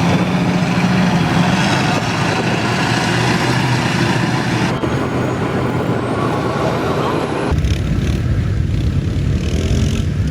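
Mud trucks' engines running hard in a mud bog, a loud, dense engine noise with a low hum, changing abruptly about five and again about seven and a half seconds in.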